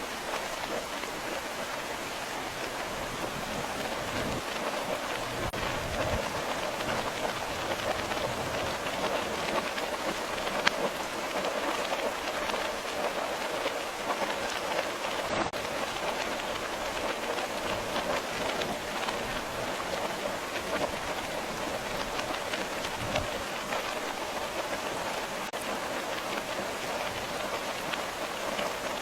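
Steady rain, with a dense patter of drops falling on a surface.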